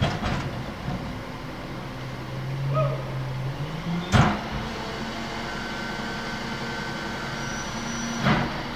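Garbage truck running, its engine note rising under load for a second or two, with a loud clank about four seconds in and another near the end.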